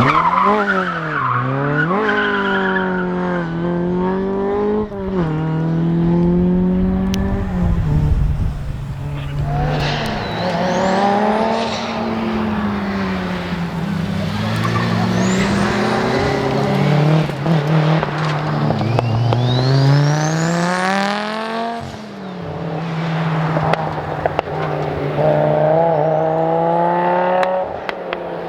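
Rally car engine revving hard and rising in pitch, then dropping back again and again as it changes gear and brakes, with tyre noise on the stage.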